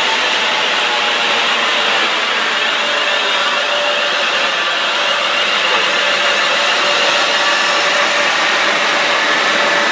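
Electric multiple-unit passenger train passing close at speed: a loud, steady rush of wheels on rail, with a faint high whine.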